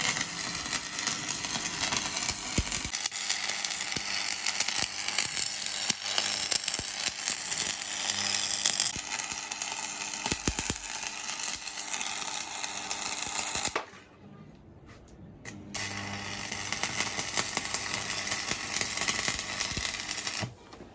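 Stick (SMAW) welding arc crackling steadily as a 6013 mild-steel electrode lays a vertical-up fill pass. The arc breaks off about 14 seconds in, is struck again about two seconds later, and stops again near the end.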